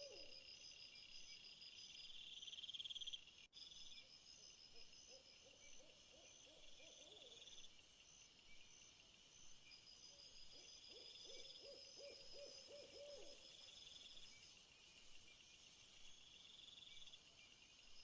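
Faint nature ambience of insects chirping and trilling at a high pitch throughout. A lower call comes in quick pulses twice, around six seconds in and again from about eleven to thirteen seconds. There is a brief dropout a few seconds in.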